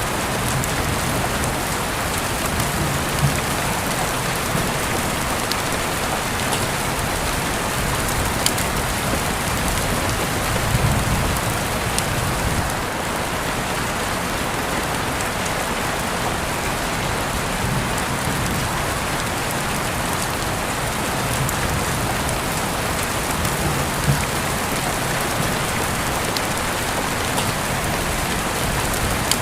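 Steady rainfall, a constant even hiss with scattered sharper drips and patters from drops striking a surface.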